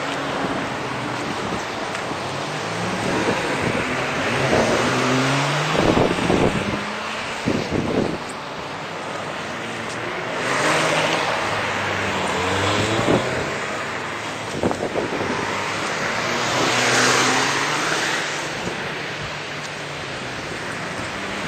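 Street traffic: cars passing and engines changing pitch as they speed up and slow down, with a few sharp knocks about six to eight seconds in. The audio plays at double speed, so the engines sound higher and faster than normal.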